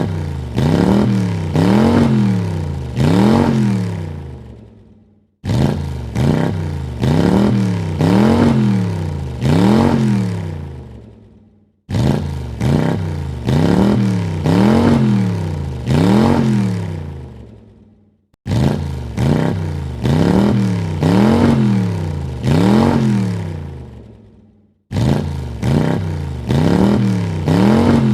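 Car engine revved in four quick blips, its pitch rising and falling with each, then dying away. The same rev sequence repeats about every six and a half seconds, each time starting abruptly.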